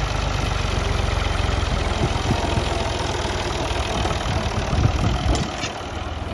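Combine harvester's diesel engine running steadily, a loud low rumble.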